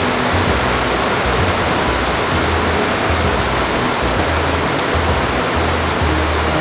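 Heavy rain pouring down, a dense steady hiss, with background music's low notes underneath.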